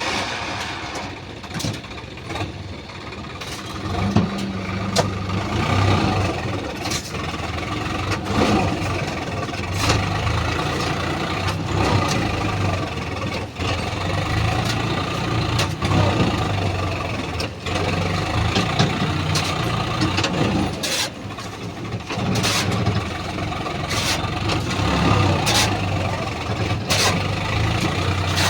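Heavy diesel engine running hard, its low steady note swelling and easing, with scattered sharp clicks and knocks.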